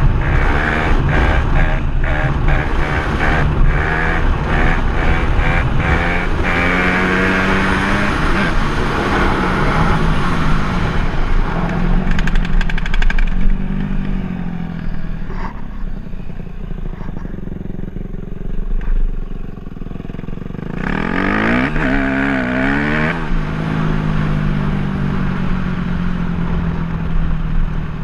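Dirt bike engine revving up and falling off again and again. It is quieter for a few seconds in the middle, then revs hard once more about three-quarters of the way through.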